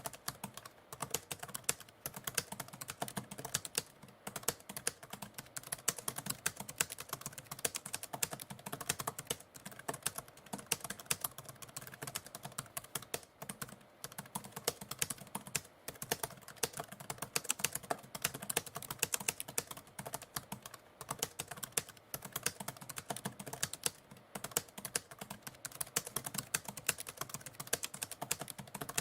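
Typewriter keys clacking in a fast, continuous stream of strikes, broken by a few brief pauses.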